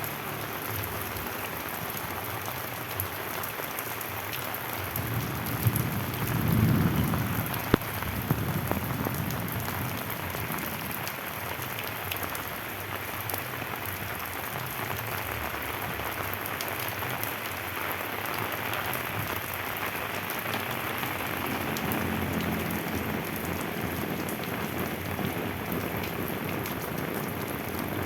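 Steady rain falling on bamboo, a continuous patter with single drops ticking through it. A low rumble swells briefly about six seconds in, and a single sharp drip-like tick follows just after.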